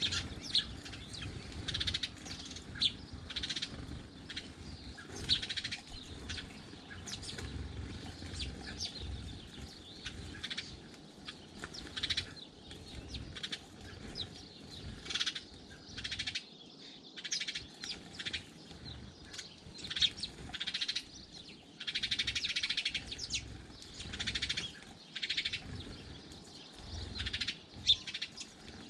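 Small garden birds chirping and twittering at a feeder, a steady run of short high calls one after another with overlapping voices.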